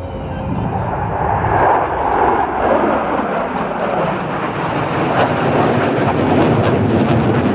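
Fixed-wing aircraft flying past, a loud steady rushing engine noise that builds over the first couple of seconds and holds, then cuts off abruptly at the end.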